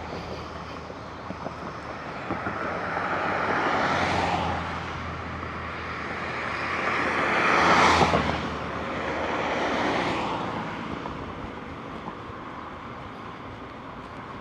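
Road traffic: cars passing one after another, each a swell of tyre and engine noise that rises and fades, the loudest a little past halfway through.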